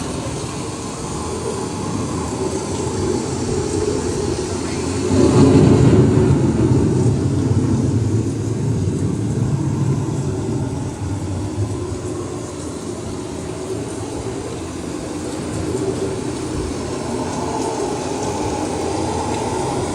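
Steady low rumbling noise of an indoor boat ride, swelling for a couple of seconds about five seconds in.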